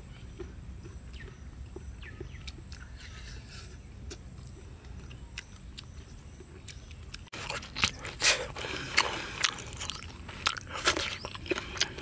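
Faint scrapes and clicks of wooden chopsticks picking at food in a coconut-shell bowl, then, after a sudden change about seven seconds in, loud close-up chewing and biting of the cooked catfish with irregular sharp clicks.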